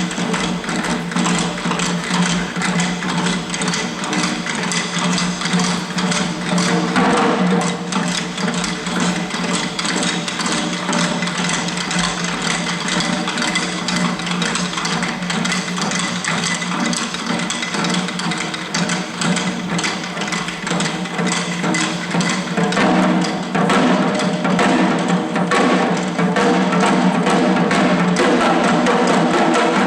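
Shishi odori (deer dance) performance music: rapid, even drumbeats from the dancers' drums over a steady held tone, growing louder for the last few seconds.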